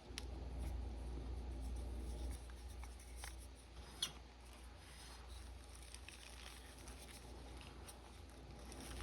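Reformed blue gym chalk bar being crushed: soft crumbling and small crunches, with one sharp crack about four seconds in.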